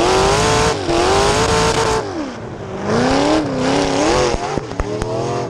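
Race car engine revving hard, its pitch climbing, falling away and going quieter about two seconds in as the throttle lifts, then climbing again. A few sharp clicks are heard near the end.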